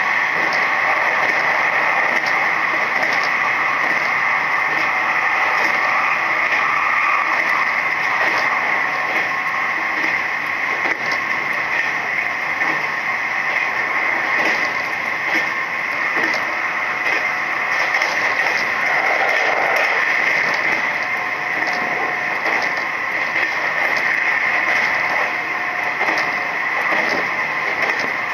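Running noise heard inside a Nishitetsu 3000 series electric train car moving at speed: a steady hiss and rumble of wheels on the rails, with a strong band of high-pitched noise and many faint clicks.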